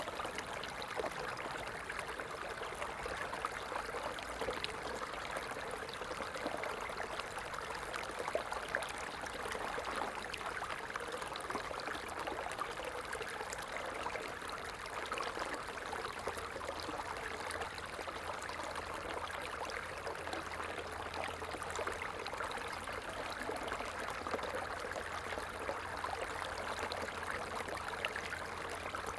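Stream water flowing steadily over stones, a continuous babbling rush dotted with small splashes and trickles.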